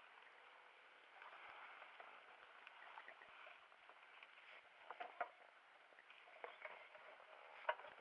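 Near silence: faint outdoor background with a few light clicks and knocks about five seconds in and near the end.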